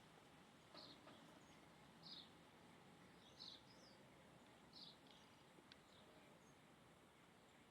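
A faint bird calling: short, high chirps repeated about every second and a bit, over a quiet background hiss.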